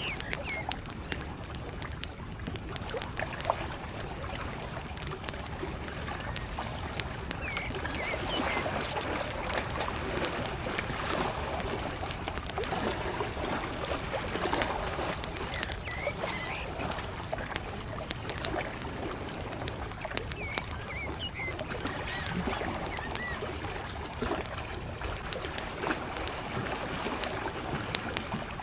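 Campfire crackling with frequent sharp pops over soft lake waves lapping, and a few short bird chirps scattered through.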